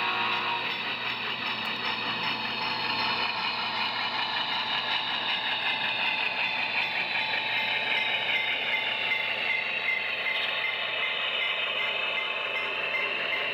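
A train running on track with a steady rattle of wheels on rails. A rapidly repeated high tone joins it in the last few seconds.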